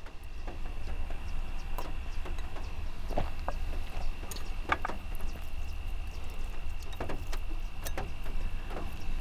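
Scattered light ticks and taps, irregular, over a steady low rumble and a faint steady high-pitched tone.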